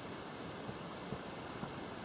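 Steady rushing outdoor background noise at a riverside campsite, with a few faint light ticks.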